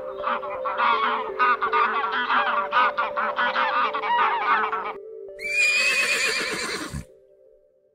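A flock of white domestic geese honking, many short calls overlapping in a rapid chorus for about five seconds. Then a horse gives one whinny that falls in pitch and fades out.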